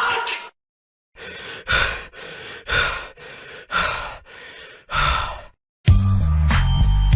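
Heavy breathing: about four slow, deep breaths in and out. Near the end, music with a heavy bass line starts.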